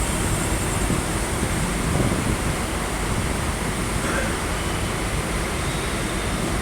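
Steady rumble and hiss of an EMU suburban local train, heard from on board.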